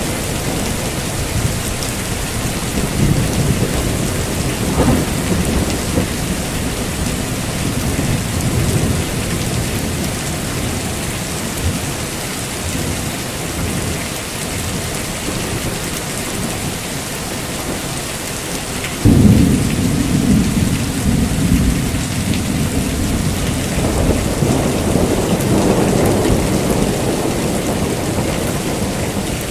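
Heavy rain falling steadily with rolling thunder rumbling underneath. A sudden loud clap of thunder comes about two-thirds of the way through, and the rumble carries on and swells again near the end.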